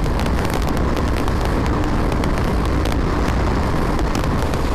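BMW G 310 R's single-cylinder engine held at full throttle in fifth gear near its top speed, drowned in a steady rush of wind over the microphone. The bike is struggling to pull beyond about 140 km/h.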